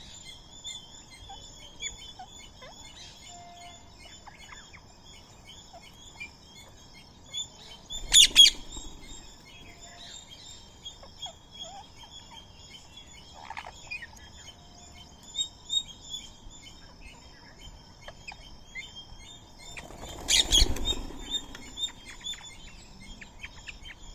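A flock of birds chirping and chattering continuously at a feeding spot, with two loud, harsh bursts, about a third of the way in and again near the end.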